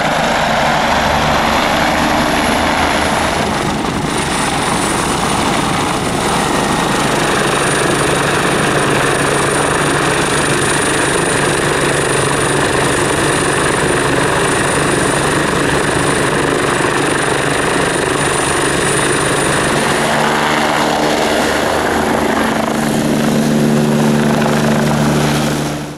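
Helicopter running close by: a loud, steady rotor beat with a high turbine whine over it. Near the end the whine fades and a lower drone comes up.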